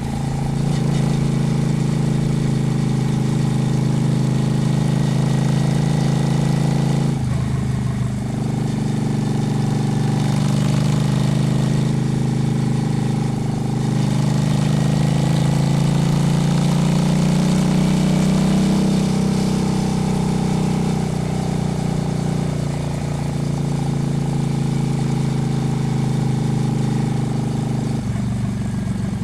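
Honda Shadow's V-twin motorcycle engine running under way. The engine note breaks briefly about seven seconds in, climbs in pitch around the middle, then settles back down.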